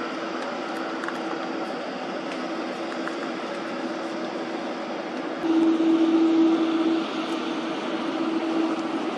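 Jet aircraft engines running steadily at low power, a continuous hum with a low steady tone that grows louder for about a second and a half midway before settling back.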